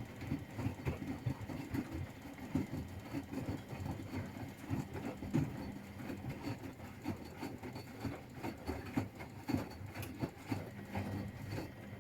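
Washing machine running a wash: the drum turns and the laundry tumbles with irregular soft thumps and swishes over a steady hum.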